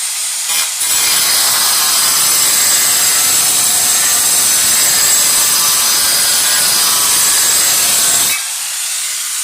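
Angle grinder cutting through a tile: a steady, loud grinding with a high whine as the disc works along the cut, biting in fully about a second in. Near the end the disc comes out of the tile and the grinder runs on freely at a lower level.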